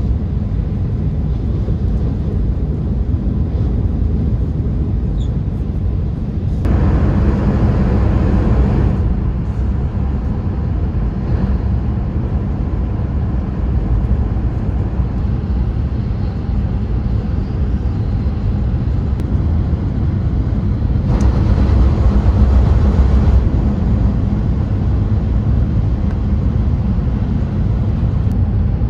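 Steady rumble of a Hayabusa shinkansen running at high speed, heard from inside the passenger cabin. It turns louder twice, for a couple of seconds each time, about a quarter of the way in and again about two-thirds of the way in.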